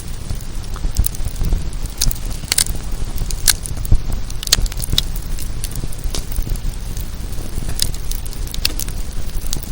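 Wood campfire crackling, with irregular sharp pops and snaps scattered through, over a low steady rumble.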